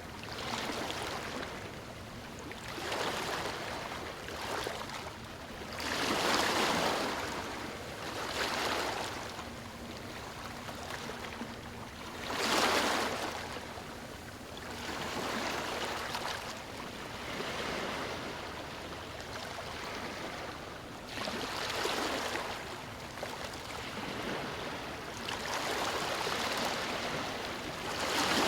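Small waves breaking and washing over stones on a shore. The rushing surges and ebbs every few seconds, and the strongest swells come about six and twelve seconds in.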